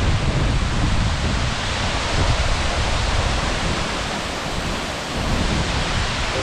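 Large waterfall rushing: a loud, steady, even wash of falling water.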